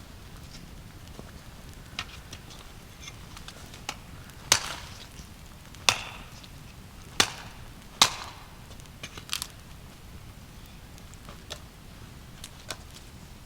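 Wood being chopped: four loud, sharp strikes a second or so apart, with lighter knocks before and after.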